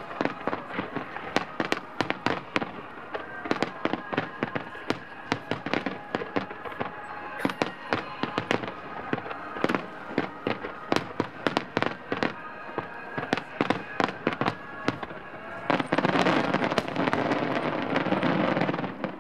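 Aerial fireworks shells bursting in quick succession, many sharp bangs close together, over the music the show is set to. Near the end comes a loud, dense crackle lasting about three seconds.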